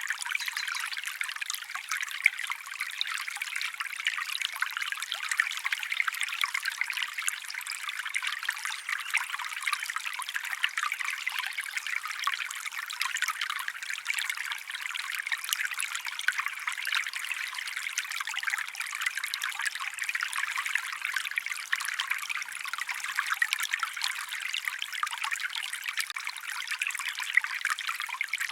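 Small stream trickling over stones: a steady babble of water, bright and splashy, with no low rumble.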